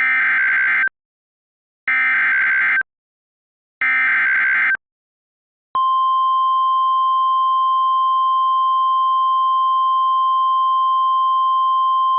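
Emergency weather alert signal: three short buzzing data bursts of the kind that carry a warning's coded header, then about six seconds in a single steady high alert tone of the NOAA Weather Radio kind that comes on and holds.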